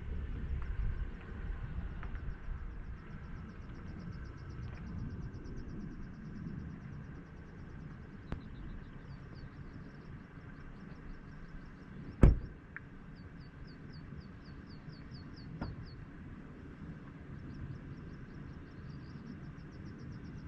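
Outdoor ambience of low wind rumble with repeated runs of rapid, high chirping. One heavy thump about twelve seconds in, and two light knocks before and after it.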